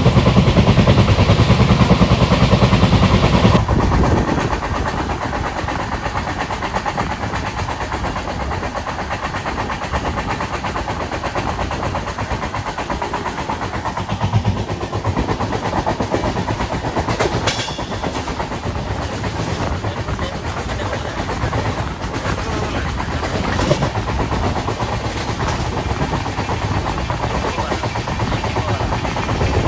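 Diesel-hauled express train running on the line. A loud, low, steady drone for the first few seconds changes abruptly to quieter, even running noise with occasional faint clicks.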